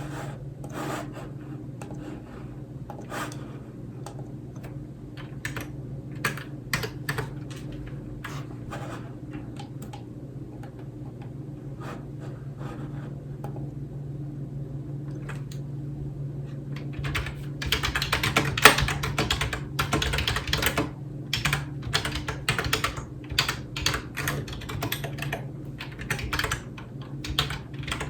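Computer keyboard typing: scattered single keystroke clicks at first, then fast, continuous typing from a little past halfway, over a low steady hum.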